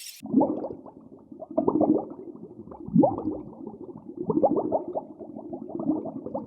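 An animal calling over and over: short pitched calls, some sliding up or down in pitch, about every second and a half.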